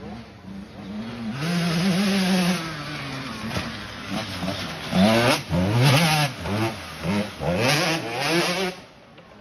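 Dirt bike engine revving hard, its pitch climbing and dropping again and again as the throttle is worked, with several quick rising bursts in the second half before it fades near the end.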